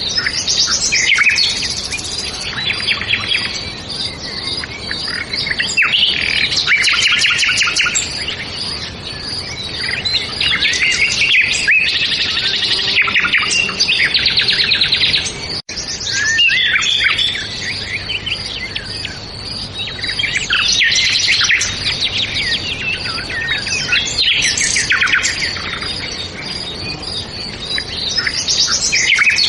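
Several birds singing and chirping together in overlapping bursts of quick trills and twitters, over a steady high pulsing note. The sound drops out for an instant about halfway through.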